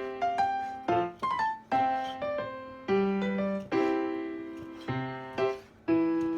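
Background piano music: struck chords and short melodic phrases, each note fading after it is hit.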